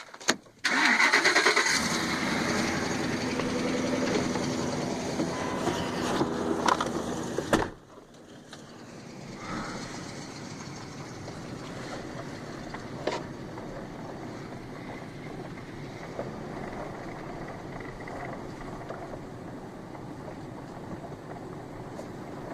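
A vehicle engine starting about a second in and running loudly with a steady hum, dropping suddenly just before eight seconds to a quieter, steady running sound.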